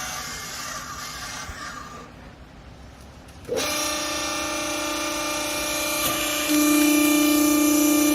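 Used clothing baler's motor and pump starting about three and a half seconds in and running with a steady hum, which steps louder near the end. A softer rushing noise comes first.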